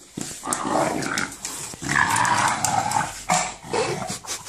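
English bulldog growling and grunting in play while mouthing a ball: the rough, drawn-out 'monster sound', with a few short clicks in between.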